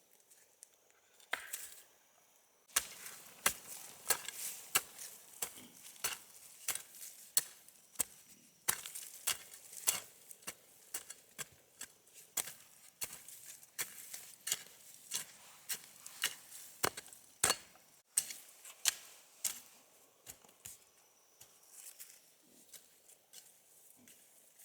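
Repeated chopping blows of a blade into wood, about two to three strikes a second, starting about three seconds in and becoming sparser and fainter near the end.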